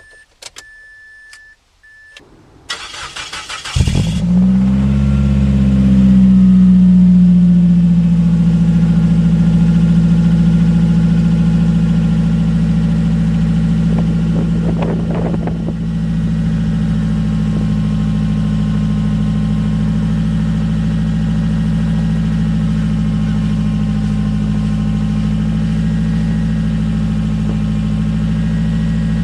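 A short electronic chime, then the starter cranks for about a second before the 2002 Mazda Protege's four-cylinder engine catches on a cold start. It runs at a raised cold fast idle, then drops to a lower steady idle about fifteen seconds in.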